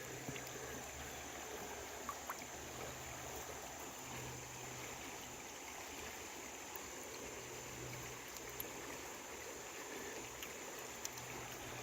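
Creek water flowing steadily, with a few faint clicks.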